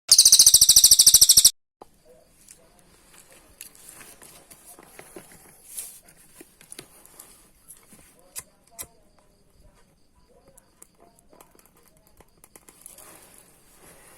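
A cililin songbird's loud, very rapid buzzing trill, high-pitched, lasting about a second and a half and then cutting off. After it come only faint scattered clicks, rustles and soft short chirps.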